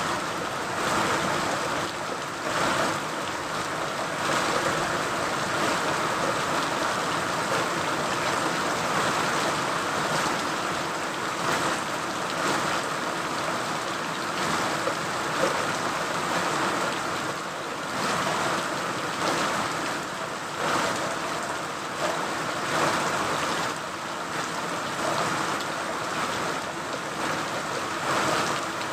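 Steady rain: a dense, even hiss of falling drops with small swells in level.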